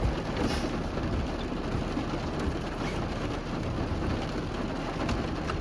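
Steady rain falling on a car, heard from inside the cabin, with a low rumble underneath and a few faint ticks.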